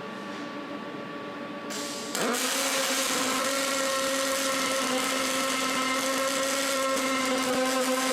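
Electric power tool spinning up about two seconds in, then running at a steady whine with hiss until the end.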